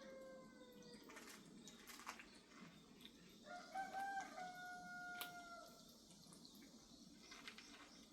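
Two faint, long, drawn-out animal calls, each holding one slightly falling pitch. The first ends about a second in; the second, louder one starts about three and a half seconds in and lasts about two seconds. Light scattered clicks are heard in between.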